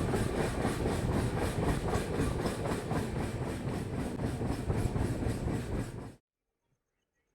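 Express passenger train running on the line: a steady rumble and rattle of the coaches on the track, which cuts off abruptly about six seconds in.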